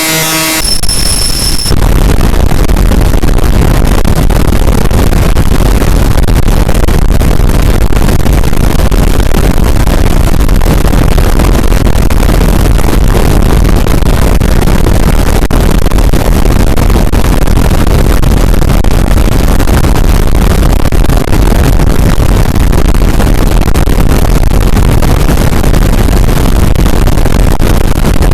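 Harsh noise music: a loud, dense wall of distorted noise with a heavy low rumble, holding steady. In the first couple of seconds a few high tones cut out as the noise takes over.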